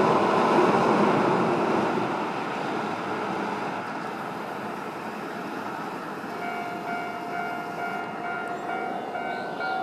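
Keio Line electric train passing over the level crossing and fading away. About six seconds in, the crossing's warning bell starts ringing with a steady, even repeat, about twice a second.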